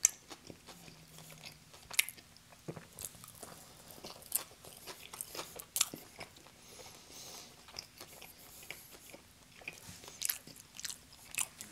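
Close-miked chewing and biting of pizza crust, with sharp crackling bites several times among the wetter mouth sounds.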